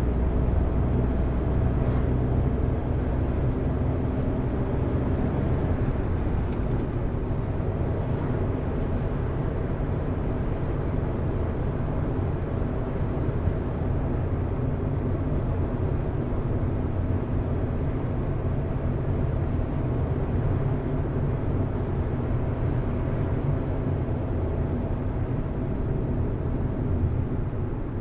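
Car driving along a road at a steady pace: a continuous low engine hum with tyre and road noise.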